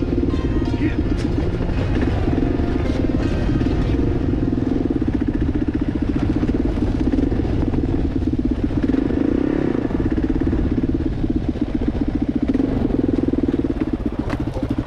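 Kawasaki KLR 650's single-cylinder engine running steadily under way, with the pitch rising and falling a little as the throttle changes.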